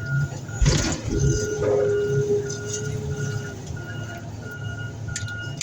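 A vehicle's reversing alarm beeping steadily about twice a second over a low engine rumble. There is a sharp knock just under a second in.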